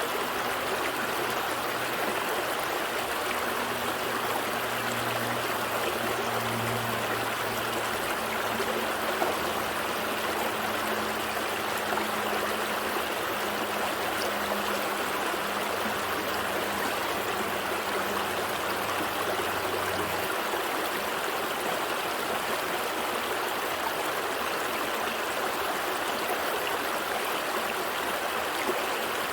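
Gentle stream flowing, a steady rush and trickle of water. Beneath it runs a faint low hum that stops abruptly about two-thirds of the way through.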